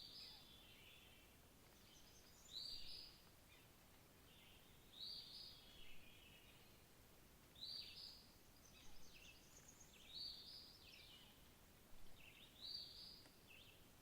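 A small songbird singing the same short, high phrase over and over, about every two and a half seconds, over faint background hiss.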